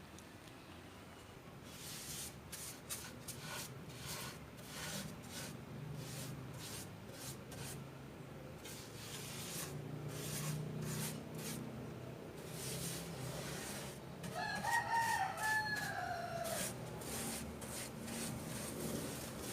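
Rooster crowing once about fifteen seconds in, one long call that falls at the end. Around it are repeated short scraping and splashing noises of an egg incubator's parts being washed.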